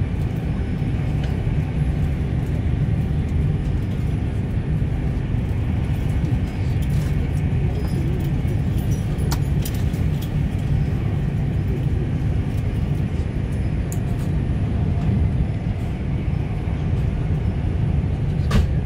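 Queensland Rail Tilt Train running at speed, heard from inside the carriage: a steady low rumble of the train in motion, with a few light clicks in the middle and a sharper click near the end.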